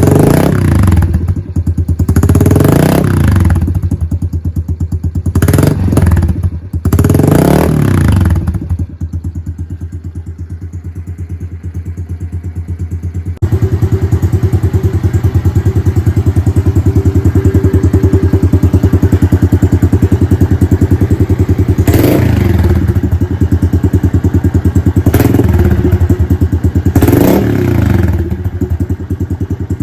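Honda CRF110 single-cylinder four-stroke with a 132cc big bore kit and Piranha exhaust, idling with short throttle blips that rise and fall. There are four blips in the first eight seconds, a long steady idle, then three more blips near the end. The exhaust note is throaty, and the engine is still a little cold.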